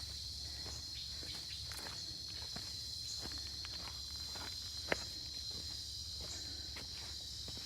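Steady high-pitched drone of jungle insects, with irregular footsteps on the ground beneath it and one sharp click about five seconds in.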